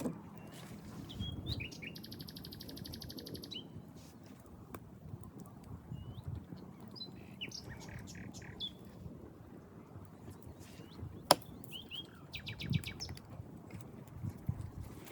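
Wild birds chirping in woodland, with two quick trills of rapidly repeated notes, one a couple of seconds in and one near the end. A single sharp crack about eleven seconds in is the loudest sound.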